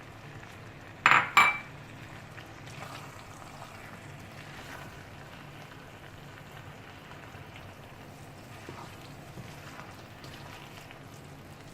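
Chicken fajita pasta in a milk sauce sizzling gently in the pot, with two sharp knocks of a utensil against the pot about a second in.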